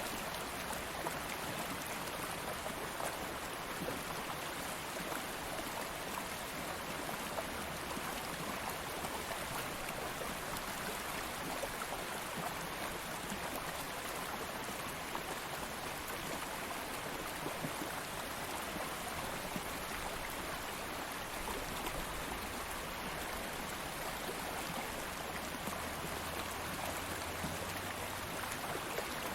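A shallow stream of water flowing steadily, an even rushing and babbling with fine splashing detail.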